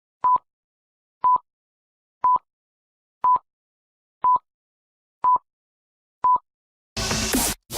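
A short, high electronic beep sounds once a second, seven times, like a countdown. Near the end, loud electronic dance music cuts in.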